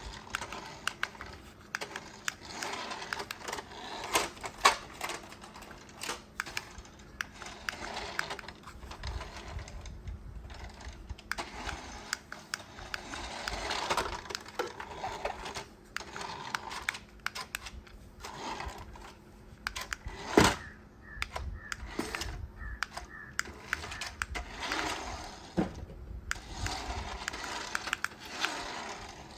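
Hands handling hard plastic toy parts and packaging: irregular clicks, knocks and rustling, with one sharp knock about twenty seconds in.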